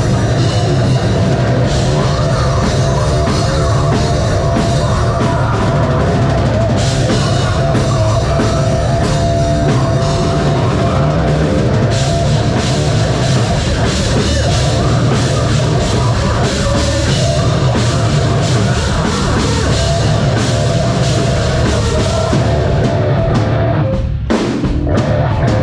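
Live metal band playing loud: heavily distorted guitars and bass over a pounding drum kit with crashing cymbals, with a few abrupt stops near the end.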